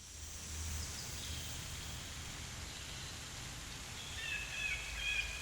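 Rainforest ambience: a steady hiss of background natural sound, fading in at the start, with high chirping bird calls about four seconds in.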